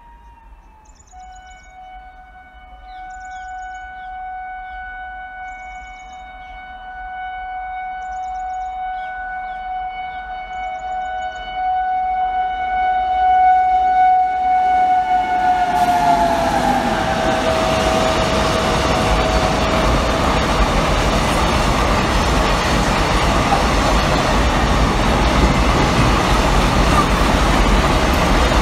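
An Indian Railways electric freight locomotive sounds one long held horn blast as it approaches, getting steadily louder, and the horn's pitch drops as the engine passes. The steady noise of its container wagons rolling by at speed then follows.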